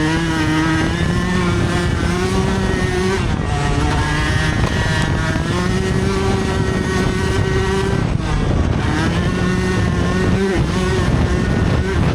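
Dirt bike engine revving hard and holding high revs while riding. The pitch drops briefly and climbs again a few times, around 3, 8 and 10 seconds in.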